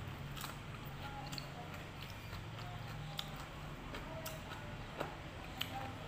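Faint chewing of raw vegetables, with scattered small crunchy clicks, over a steady low hum.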